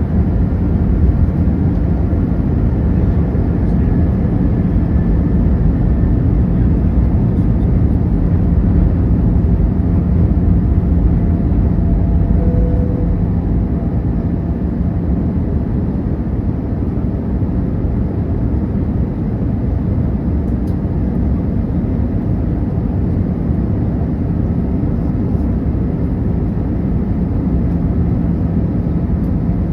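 Steady cabin noise inside an Airbus A319 airliner in flight: a low rumble of engines and rushing air, with a steady low hum underneath.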